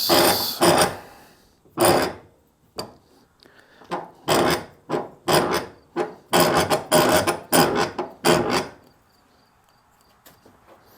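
A hand file rasping along the edge of a mower blade clamped in a vise, in a series of separate strokes that stop about nine seconds in. This is the blade being sharpened.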